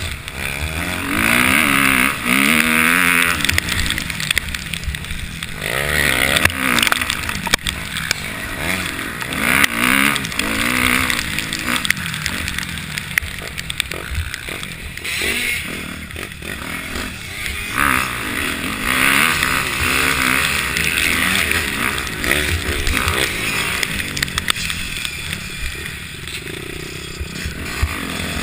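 Motocross dirt bikes riding the track, their engines revving up and backing off again and again, with louder passes coming and going every few seconds.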